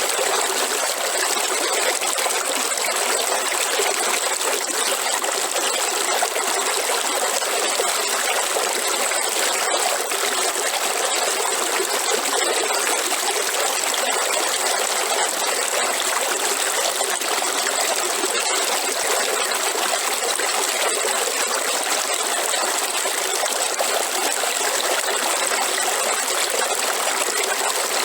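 Waterfall: a steady rush of falling and splashing water, with a few faint clicks about ten and eighteen seconds in.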